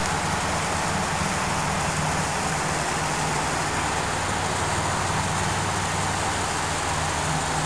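1999 Pontiac Grand Prix GTP's supercharged 3800 V6 idling steadily through an exhaust with the mufflers removed.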